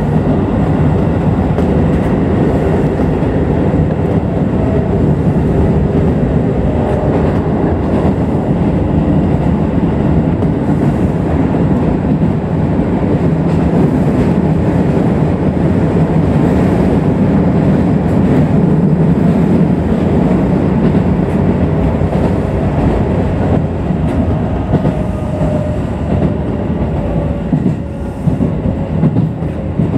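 Keisei Electric Railway electric train running along the line, heard from the driver's cab: steady running noise of wheels on rail. A faint thin tone rises over it in the last few seconds.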